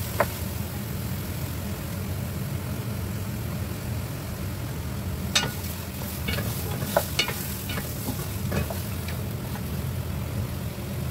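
Pork knuckle pieces and onion frying in a pot with a steady sizzle, stirred with a wooden spoon that knocks sharply against the pot a few times in the second half.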